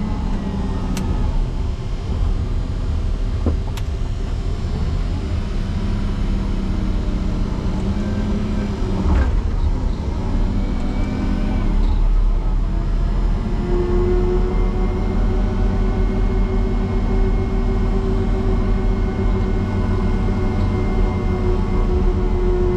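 Motor grader's diesel engine working hard as the blade pushes into deep, hard-packed drifted snow: a steady heavy drone whose pitch shifts and then holds higher from about halfway through. A few sharp knocks come in the first ten seconds.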